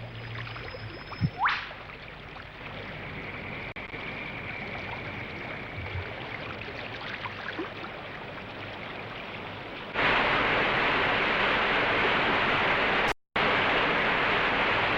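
River water rushing over rapids, a steady hiss that jumps abruptly to a louder, brighter rush about ten seconds in. It cuts out for a moment a few seconds later.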